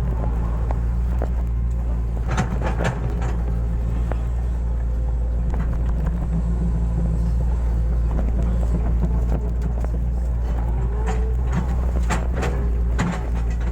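Hitachi hydraulic excavator's diesel engine running steadily while it digs, with a few knocks about two seconds in and again near the end.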